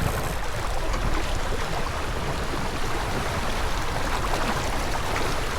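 Water rushing along the hull of a J/24 keelboat under sail: a steady wash with no break.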